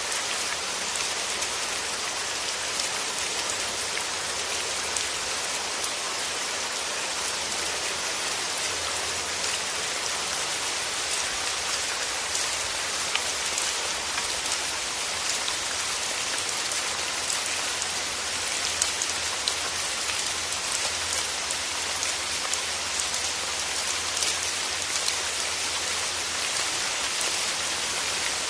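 Steady rain falling, an even hiss with many fine drop ticks on surfaces.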